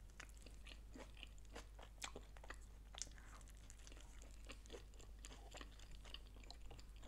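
Faint chewing of food close to the microphone, with irregular small crunchy clicks and a couple of sharper ones about two and three seconds in.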